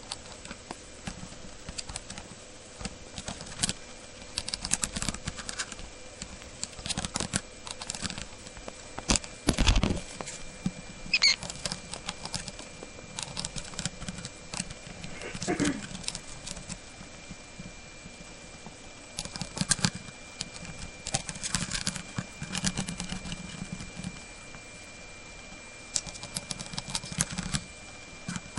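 Cockatiel nibbling dry soba noodles and breaking them into pieces: bursts of small crunching clicks with pauses between, and one louder crack about ten seconds in.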